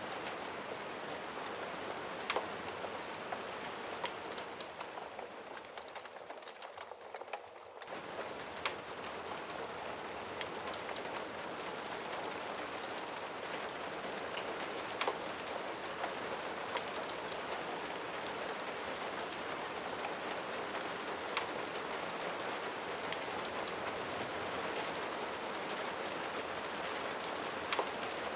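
Steady rain falling on a surface, with an occasional sharp tick of a heavier drop. The rain sound fades down a few seconds in, then comes back suddenly at about eight seconds.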